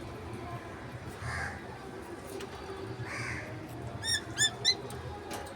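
Pet lovebirds calling: two hoarse, noisy calls in the first three seconds, then a quick run of four sharp, high chirps about four seconds in, the loudest sounds here.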